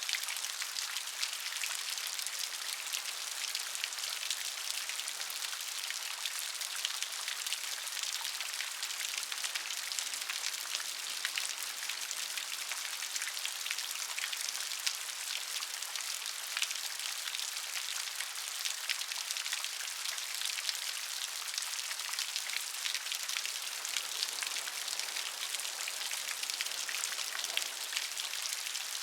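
Steady rain, with many small drops ticking on a surface over a constant high hiss.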